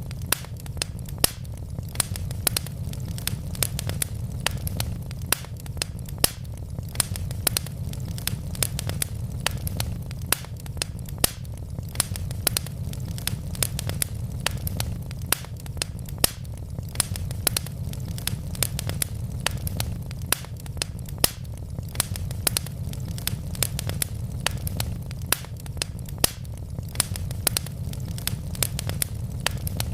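Wood logs burning in a fireplace, crackling and popping with many sharp snaps a second over a steady low rumble.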